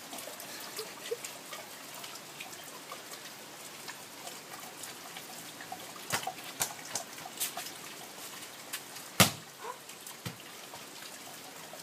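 Steady rain falling, with scattered sharp drips and taps of drops. A few louder taps come around six to seven seconds in, and one sharp knock, the loudest sound, about nine seconds in.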